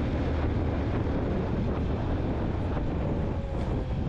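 Yamaha motorcycle riding at steady cruising speed: engine running evenly, nearly buried under wind noise rushing over the microphone.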